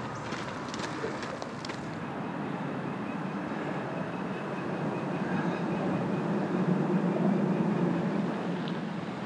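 Passenger train passing, a low rumble that builds to its loudest about two-thirds of the way through and then eases off.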